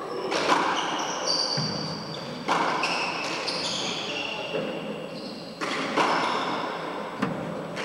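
A handball rally in a four-wall court: the ball is struck and smacks off the walls and floor several times with a hard, echoing crack, and shoes squeak briefly on the wooden floor between the hits.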